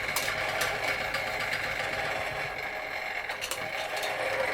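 Huxtable hot air Stirling engine running steadily, driving model fairground rides, with a steady mechanical whirr and a few light clicks.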